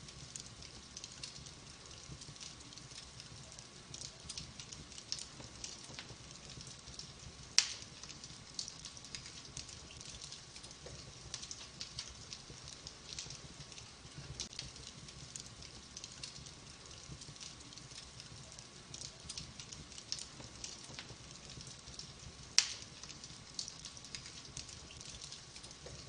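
Burning logs crackling in a wood fire, a steady scatter of small snaps with two much louder pops, one about a third of the way in and one near the end, over a low rumble.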